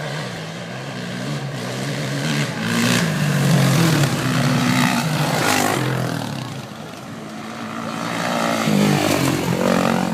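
Motocross motorcycle engines revving hard with pitch stepping up and down through the gears, growing louder as bikes pass, dropping away about seven seconds in, then swelling again near the end.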